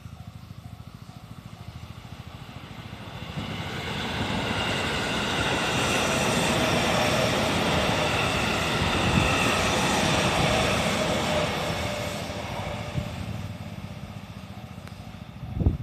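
JR 313 series electric multiple unit passing slowly over a level crossing: the train's running noise and wheel clatter build from about three seconds in, hold for several seconds and fade away near the end. A level-crossing warning bell is still ringing at the very start.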